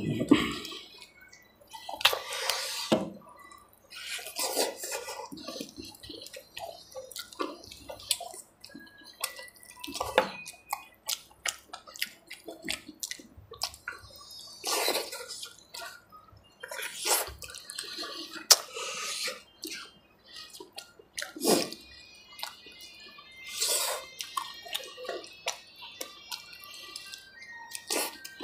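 Close-up mouth sounds of a man eating by hand: chewing and lip smacks with sharp clicks, coming irregularly, with a few louder smacks along the way.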